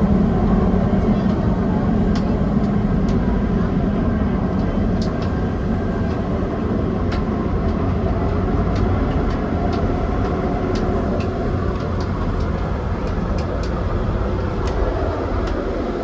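Running noise inside a DLR B92 light-rail car in motion: a steady rumble of wheels on rail with scattered sharp clicks, and a low hum that fades after about four seconds.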